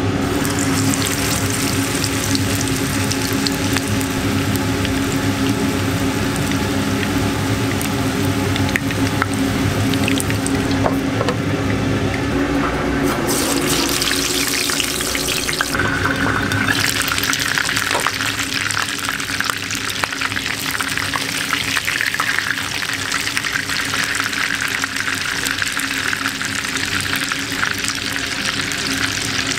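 Hamburger steak patties and eggs frying in hot oil: a steady sizzle with fine crackling, changing character twice around the middle. A steady low hum runs under the first half.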